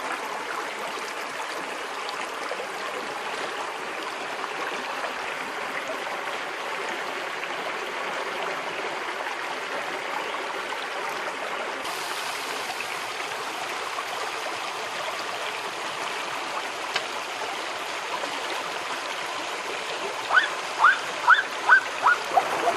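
River water flowing steadily. Near the end, a quick run of about seven short high-pitched calls.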